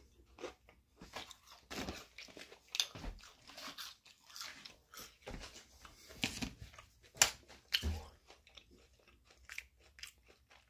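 Close-up chewing of crispy fried shrimp: irregular crunches and wet mouth sounds as the breading is bitten and chewed.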